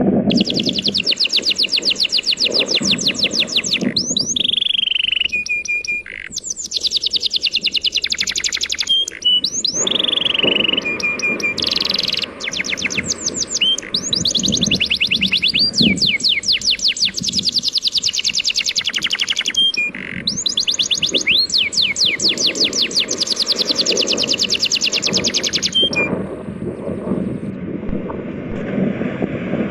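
A songbird sings long, rapid trills of sharp chirps with only brief pauses, over a steady low rush of sea waves.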